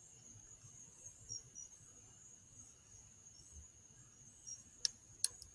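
Faint, steady high-pitched trill of insects in the night air, with two sharp clicks near the end.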